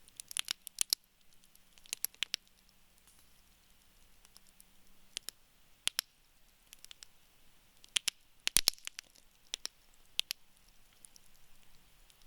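Wood fire crackling in a fire pit: sharp pops and snaps in clusters over a faint hiss. The loudest run of pops comes about eight and a half seconds in.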